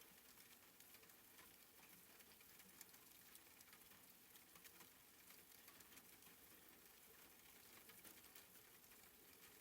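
Faint, soft rain: a steady patter of many small drops.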